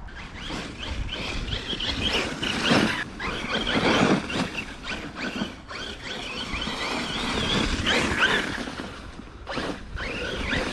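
Arrma Kraton 6S EXB RC truck driving in snow: the high whine of its brushless motor rises and falls as the throttle is worked, over a steady rushing noise.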